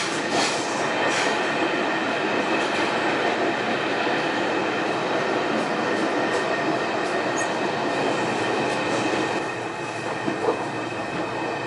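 Passenger train running, heard from inside the carriage: a steady rushing rumble with a faint high whine over it, a little quieter for the last two seconds.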